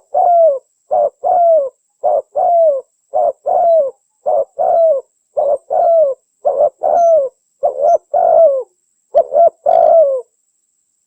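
Spotted dove cooing over and over in two-note phrases, a short note followed by a longer falling coo, about one phrase a second, stopping shortly before the end.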